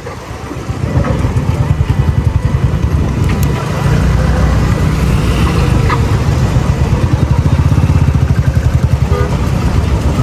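Motorcycle engine and exhaust running under way, a rapid low pulsing that gets louder about a second in and then holds steady.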